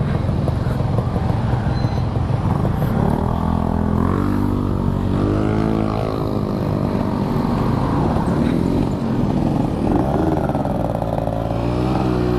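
Yamaha RX-King two-stroke single-cylinder motorcycle engine running on the road, its pitch rising and falling several times as it accelerates and changes gear.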